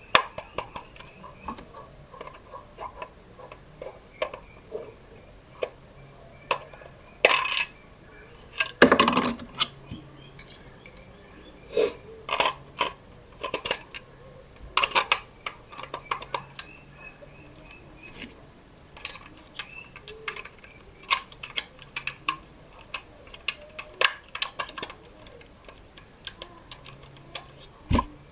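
Irregular clicks, knocks and light rattles of small hard plastic toy parts and packaging being handled, with a few louder clatters.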